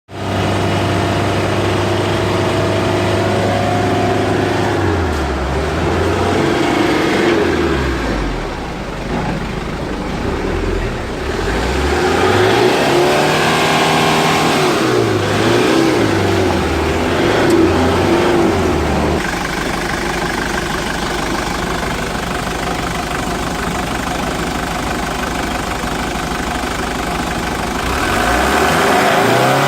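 Hyundai Terracan engine running at idle, then revved up and down over and over for about fifteen seconds, settling back to a steady idle and picking up again near the end.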